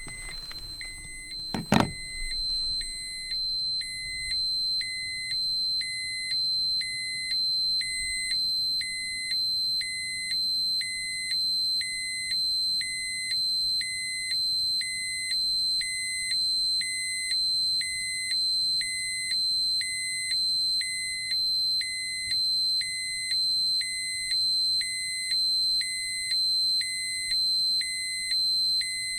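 Electronic alarm sound effect: a steady high-pitched tone with a lower beep pulsing on and off about once a second, after a sharp click near the start.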